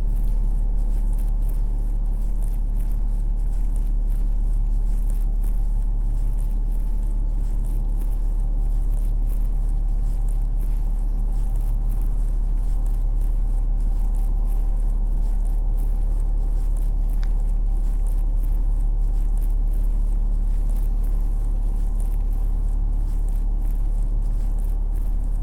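Steady low city rumble with a constant mechanical hum. It holds at a deep, even level throughout, with faint scattered ticks above it.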